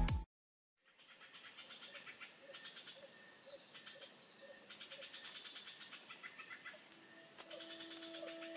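Faint rainforest ambience: a steady high-pitched insect drone with rapid chirping, and a short lower call repeating about twice a second. Electronic music cuts off right at the start.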